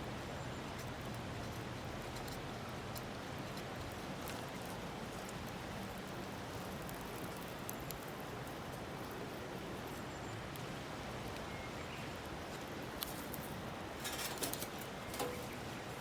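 Wood campfire burning with a steady hiss and scattered crackles and pops, with a quick run of louder pops near the end.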